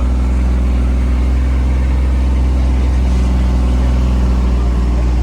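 A vehicle engine idling steadily close by, a deep even hum with no revving.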